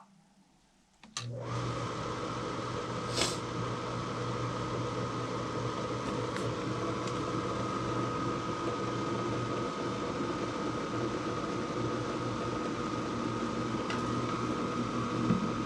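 A motor-driven machine switches on about a second in and runs steadily, with a low hum and a higher steady whine.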